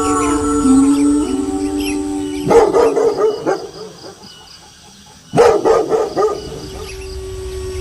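Several wolves howling together, their long calls overlapping at different pitches, then two bursts of rapid dog barking about two and a half and five and a half seconds in. A single howl is held through the end.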